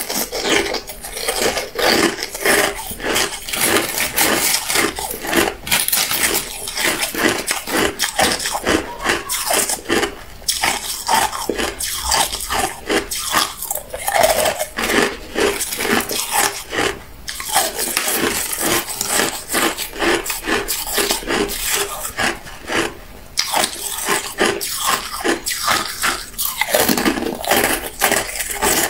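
Hard clear ice being bitten and chewed close to the microphone: dense, rapid crunching and cracking, with brief pauses between bites.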